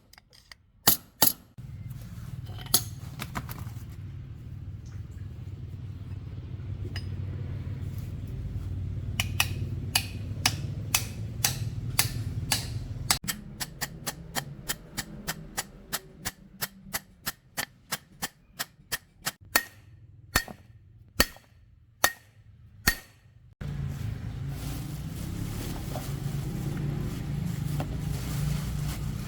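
Repeated hammer blows on metal, sharp ringing strikes about one and a half to two a second for long stretches, over a low steady machine hum that cuts out partway through and returns suddenly near the end.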